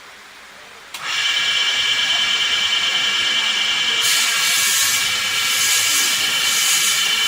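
Woodworking lathe starting up about a second in and running with a steady high whine and a loud hiss; the hiss grows stronger about four seconds in.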